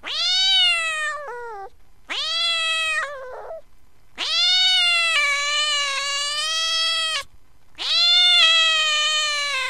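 Upset cat yowling in four drawn-out calls, each sliding up in pitch at the start and then held. The third call is the longest, at about three seconds.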